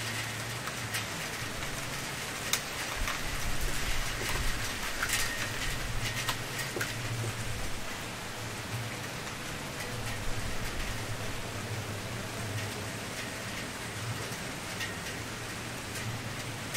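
Wood fire crackling steadily, with scattered sharper pops and snaps, the strongest about two and a half and five seconds in, over a low steady rush.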